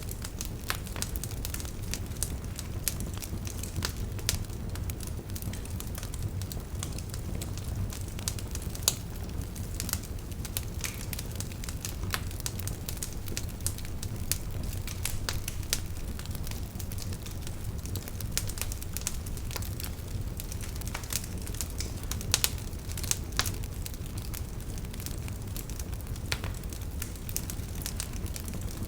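Campfire crackling, with irregular sharp pops and snaps, over a steady low rush of river water.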